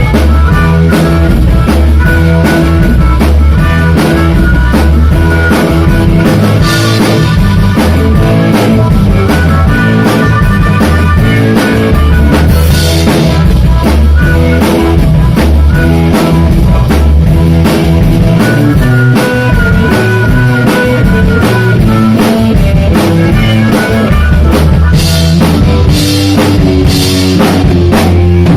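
Live blues-rock band playing an instrumental passage: electric guitar, bass and drum kit with a steady beat, loud throughout.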